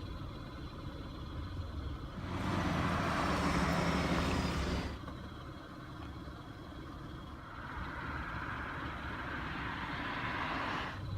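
Road traffic under a steady low rumble: one car passes with a loud tyre whoosh a couple of seconds in, and a second car's hiss builds from about halfway and cuts off abruptly near the end.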